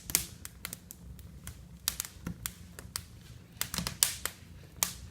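Freshly lit pine firewood crackling as it catches in an open brick fireplace: irregular sharp snaps and pops, some close together, others a second or so apart.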